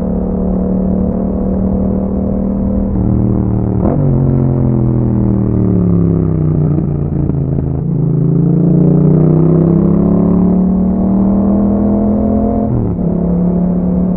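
Yamaha MT-07's 689 cc parallel-twin engine running through an aftermarket Akrapovic exhaust. The engine note falls for a few seconds and then climbs again, with abrupt breaks in the note about four seconds in and near the end, as the revs change.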